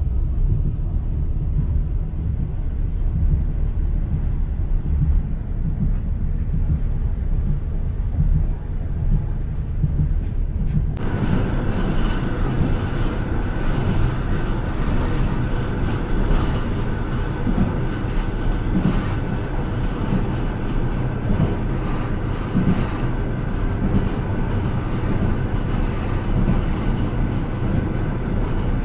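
Moving passenger train heard from inside a carriage: a steady low rumble of wheels on the rails. About eleven seconds in, the sound changes abruptly to a brighter, fuller rushing noise with scattered knocks from the wheels on the track.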